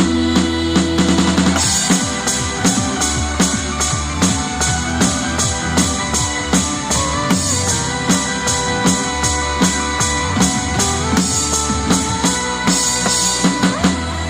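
Drum kit played along with the song's recorded track: a steady beat of kick and snare, with cymbal crashes twice. Near the end the drumming stops and the track plays on.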